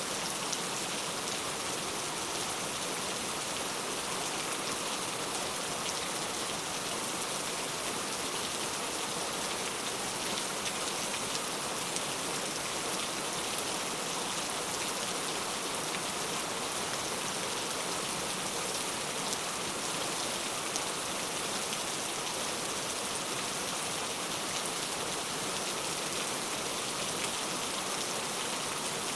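Steady rain falling and pattering on a surface, an even hiss without pauses or thunder.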